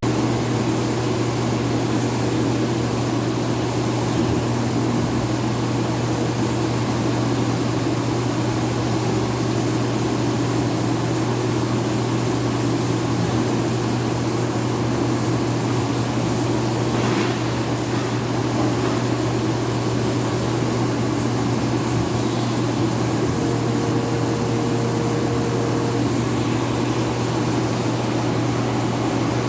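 Steady mechanical hum of a powered CNC vertical machining center, a Haas VF-4, running, with a faint tick about halfway through.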